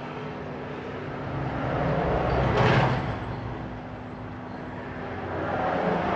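Two vehicles passing by, each a swell of noise that rises and fades. The first is loudest about two and a half seconds in, the second comes near the end. Under them runs a steady low hum.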